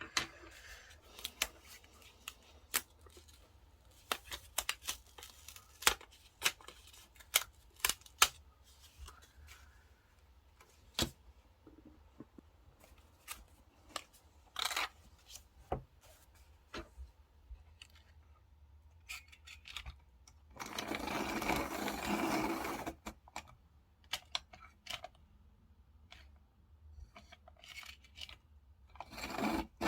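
Diary-decorating desk sounds: many small sharp clicks and taps of stationery and sticker sheets being handled, then about two seconds of continuous scratchy rubbing or peeling about two-thirds of the way in, with another such stretch starting near the end.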